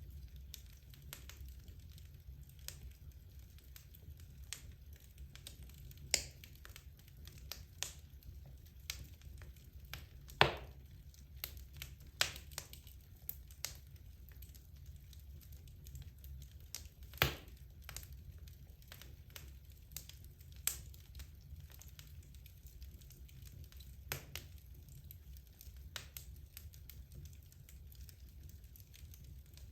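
Wood fire burning in a fireplace: irregular crackles and sharp pops of burning logs over a low steady rumble, with two louder pops about ten and seventeen seconds in.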